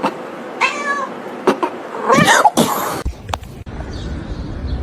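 Domestic cat meowing: a short meow about half a second in and a longer, wavering meow about two seconds in, followed by a brief noisy burst. From about three seconds in, only a steady low rumble remains.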